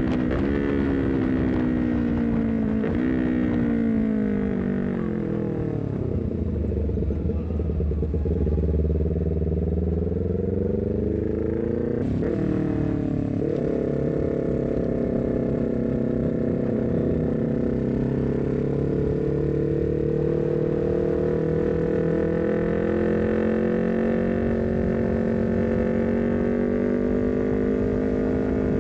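Honda CBR250RR parallel-twin engine through a full-system header and short Leovince GP Corsa carbon silencer. The engine note falls as the bike slows, with brief jumps in pitch at the shifts, sits low for a few seconds, jumps briefly about twelve seconds in, then runs steadily with a slow climb in pitch as the bike pulls through a gear.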